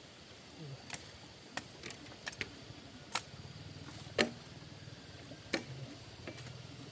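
Irregular sharp knocks of a blade chopping wood, about eight strokes, the loudest a little past four seconds in.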